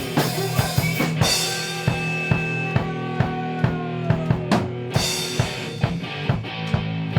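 Rock band playing: drum kit keeping a steady beat on bass drum and snare over sustained bass and guitar notes, with cymbal crashes about a second in and again around five seconds.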